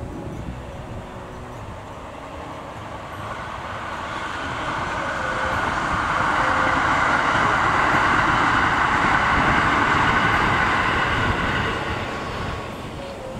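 Kintetsu 15200 series 'Aozora II' six-car electric train passing on open track. Its wheel and rail noise swells about three seconds in, holds loudest through the middle, and dies away near the end.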